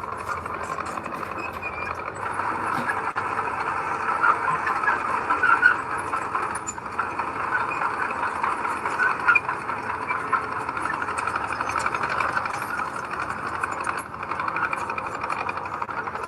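Heavy earthmoving machine running at work, its engine a steady noise overlaid with a dense, rapid clatter, a little louder about four to six seconds in.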